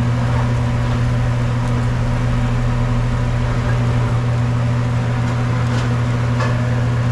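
Steady low machine hum, unchanging throughout, with a few faint clicks near the end.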